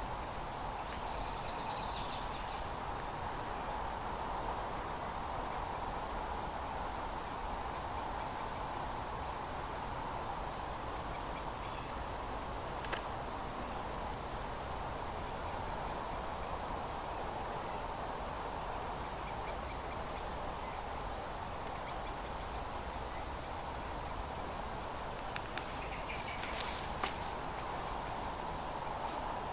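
Steady rush of flowing river water, with small birds chirping now and then over it and a few faint clicks near the end.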